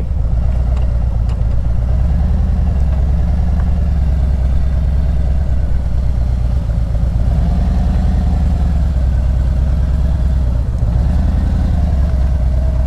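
Car engine running steadily, a low, even hum heard from inside the car.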